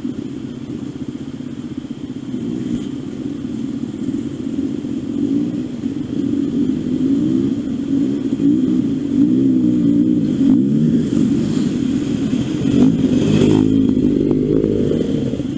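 Trail motorcycle engine running under changing throttle, its pitch rising and falling as the bike is ridden along a rough green lane. Near the end it revs up. A sharp knock comes about two-thirds of the way through, and a short clatter follows a couple of seconds later.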